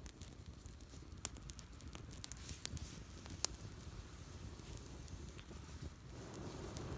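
Small wood campfire of twigs and branches crackling, with scattered sharp pops. About six seconds in, a louder rustling, rushing noise rises.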